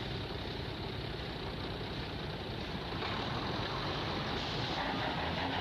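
Off-road vehicle's engine running steadily, a little louder about three seconds in.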